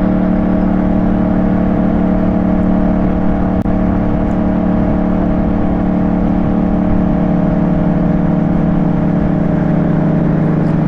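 Yamaha 689 cc CP2 parallel-twin motorcycle engine running at a steady speed while riding, its note holding level, with a rough low rush of wind underneath.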